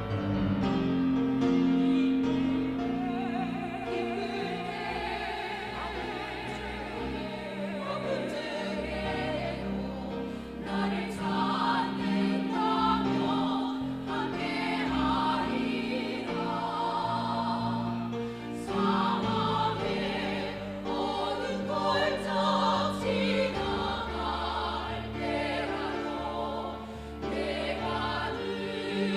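A small vocal ensemble singing a church song in harmony.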